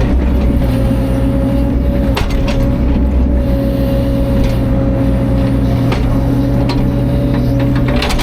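Diesel engine of a CAT 305.5 mini excavator running steadily with a constant high hum above the drone, and a few short knocks or clanks.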